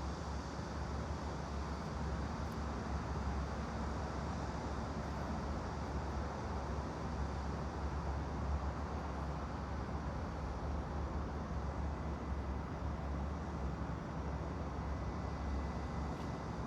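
Steady background noise with a constant low hum underneath and no distinct events.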